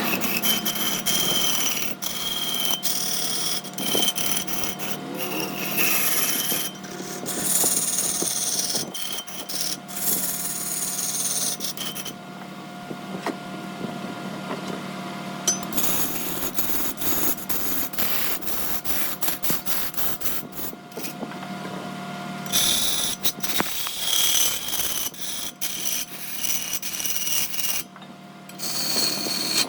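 Large wood lathe running with a steady motor hum while a turning tool scrapes and cuts the spinning wood. The cutting noise drops away twice for a few seconds while the hum carries on.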